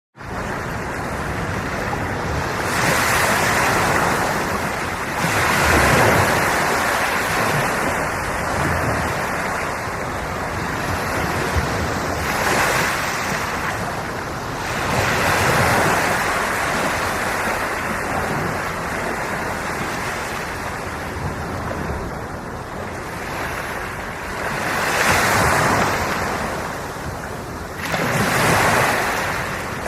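Ocean waves breaking and washing on the shore, with a swell of surf every few seconds over a steady wash of water.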